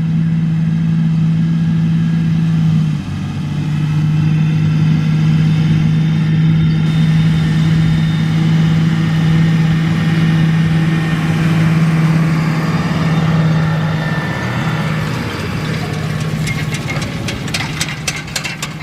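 A motor running steadily with a constant hum, its pitch stepping slightly lower about three seconds in.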